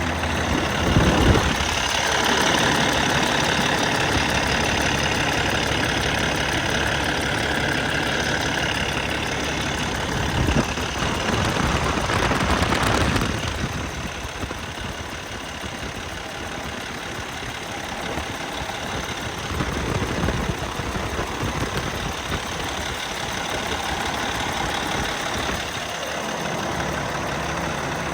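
Cummins ISX 15-litre inline-six diesel engine running, with a surge about a second in and a louder stretch between about ten and thirteen seconds, then settling to a steady idle.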